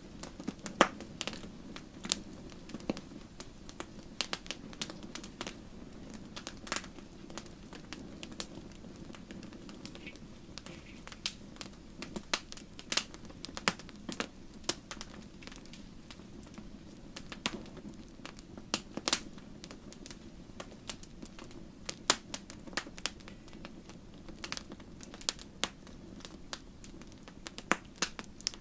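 Wood campfire burning and crackling: irregular sharp pops and snaps, several a second and some much louder, over a steady low rumble of the flames.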